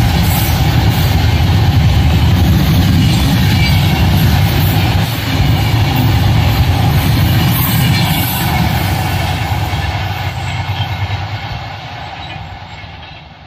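LHB passenger coaches of an express train running past, a loud, steady rumble of wheels on the rails. About ten seconds in it starts to fade away as the end of the train draws off down the line.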